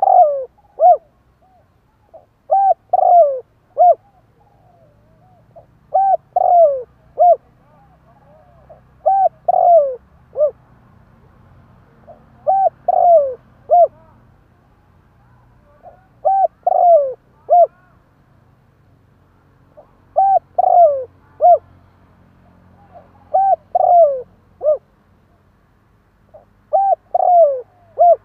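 Spotted dove cooing. It repeats the same phrase of three to four notes, one or two of them sliding down in pitch, about every three and a half seconds. This is a decoy dove's call used to lure wild doves.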